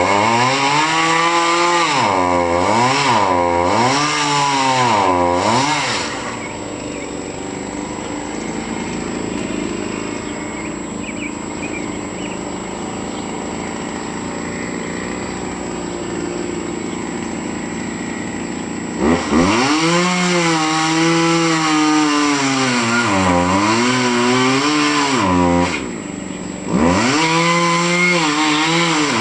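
Two-stroke chainsaw cutting wood, its engine pitch repeatedly dipping under load and climbing again. It drops to a quieter, steady run for about thirteen seconds in the middle, then goes back to cutting, with a brief lull near the end.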